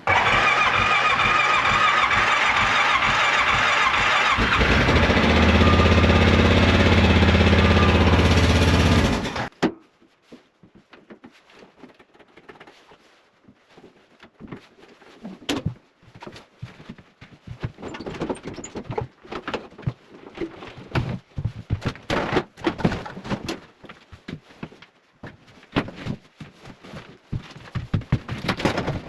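Cold ATV engine being started with the choke out: it turns over noisily for a few seconds, catches about four to five seconds in and runs loud, then cuts off suddenly about nine seconds in. Irregular knocks and clatter follow.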